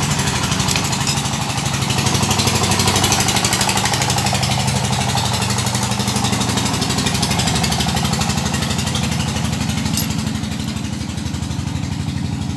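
A small engine running steadily at idle, with a fast, even pulsing. One sharp click comes about ten seconds in.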